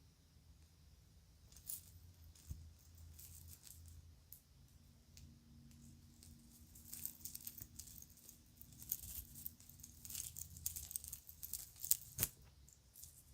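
Small pieces of children's jewelry clicking and jingling as they are handled, sparse at first and busier in the second half, with one sharp click near the end.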